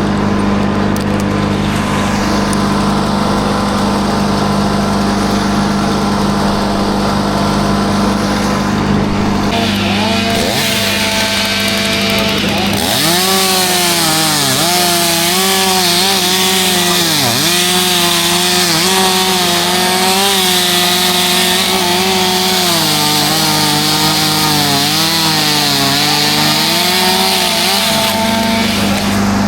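A chainsaw runs at high revs cutting wood, its pitch dipping again and again as the chain bites and recovering between cuts. It starts about a third of the way in and stops near the end, over a steady engine drone.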